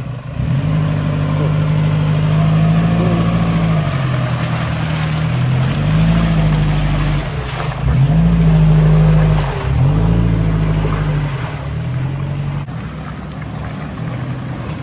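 A 4WD truck's engine revving up and easing off about four times, each rise held for a second or more, as the vehicle is driven slowly over an off-road obstacle. The revs die down near the end.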